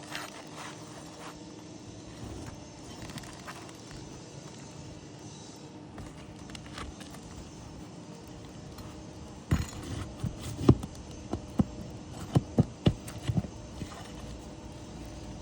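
Roof shingle repair work: a steady low background, then about two thirds in a quick run of about ten sharp knocks and taps over some four seconds.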